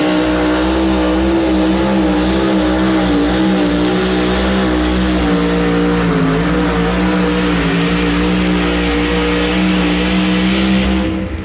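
High-horsepower pulling machine's engine at full throttle during a pull, its pitch holding high with a slight waver, then cut off about eleven seconds in.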